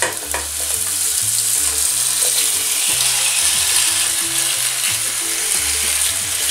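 Thin slices of raw potato sizzling steadily as they go into hot olive oil in a frying pan, growing a little louder as more slices land in the oil.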